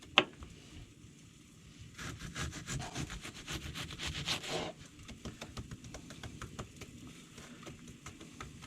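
Serrated kitchen knife sawing through food on a cutting board: a knock just after the start, then a quick run of back-and-forth strokes from about two seconds in until nearly five, then fainter scraping.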